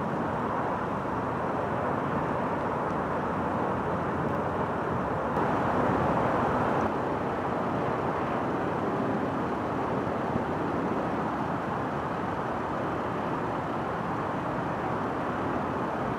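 A train passing, its wheels giving a steady rolling noise on the rails, which swells slightly about six seconds in.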